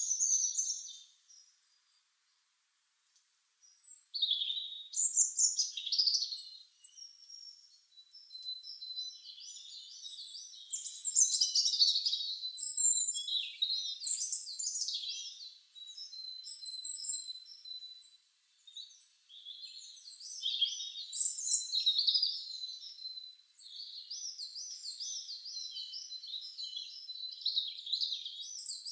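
Garden songbirds singing and chirping, several overlapping high warbling trills and chirps, with a brief pause about two seconds in. A thin, steady high note runs beneath the song through the middle.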